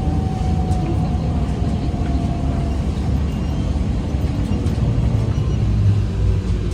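ZiU-682G trolleybus in motion, heard from the passenger cabin: a steady low rumble of the running vehicle, with a thin whine that slides slowly down in pitch over the first three seconds.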